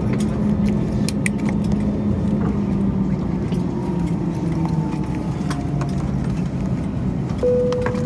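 Airbus A321neoLR cabin noise on the ground after landing: a steady low hum with engine tones slowly falling in pitch, a few sharp clicks, and a single clear tone sounding near the end.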